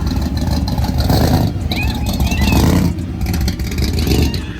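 A car engine running with a loud low rumble that swells several times, with a few brief high chirps in the middle.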